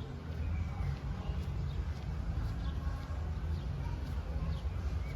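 Small birds chirping in short, falling notes over a steady low rumble of outdoor background noise.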